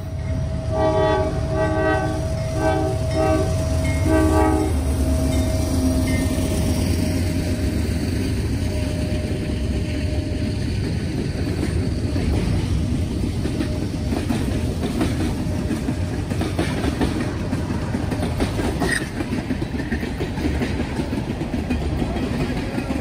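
Diesel freight locomotive's horn sounding several short blasts over the first five seconds as it passes, then the low rumble of the engines and the steady wheel clatter of freight cars rolling by.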